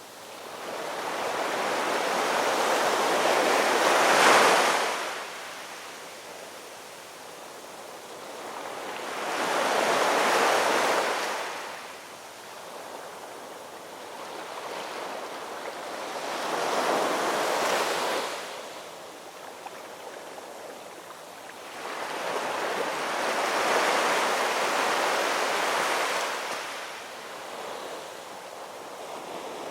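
Ocean waves breaking in slow surges, one about every six to seven seconds: four swell up and fall away, and a fifth is building near the end.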